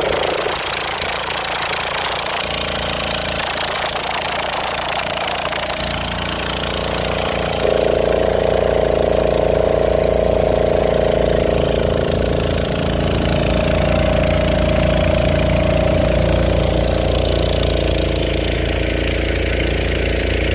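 Small boat motor running steadily, picking up and getting louder about eight seconds in.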